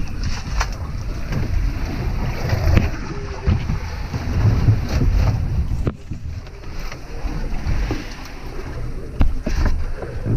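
Wind buffeting the microphone in a rough, gusty rumble, with a few scattered knocks and bumps.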